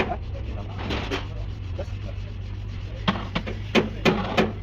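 Irregular sharp clicks and knocks of hand tools working on a truck steering box, a quick cluster of them about three seconds in, over a steady low hum.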